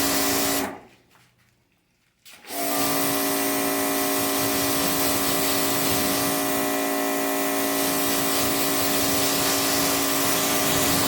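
Adams Pressure Washer 2.0 electric pressure washer running and spraying with a steady hum and hiss. It shuts off cleanly about a second in when the trigger is let go, then starts again instantly about two and a half seconds in and sprays steadily: its quick automatic on-off with the trigger.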